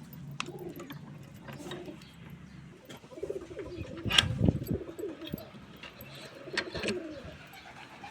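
Domestic pigeons cooing repeatedly, with a few sharp clatters, the loudest about four seconds in and another near six and a half seconds.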